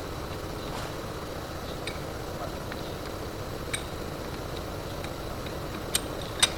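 Steady background noise with five short, sharp clicks or taps spread through it, the loudest just before the end.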